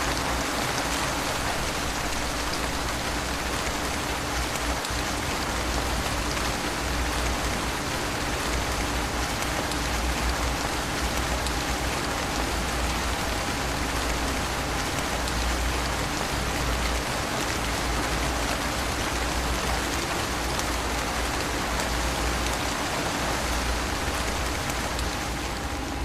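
Steady rain falling: an even hiss of many drops with a low rumble underneath.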